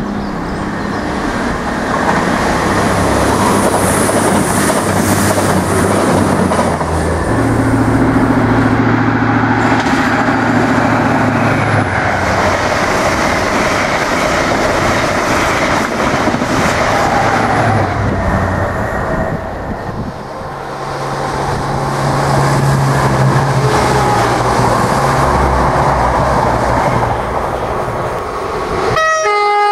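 A diesel express, an East Coast InterCity 125 with Mk3 coaches, passes at speed with a steady rumble of engines and wheels on the rails. After a break, a ScotRail Class 158 diesel unit runs up and sounds one horn blast near the end.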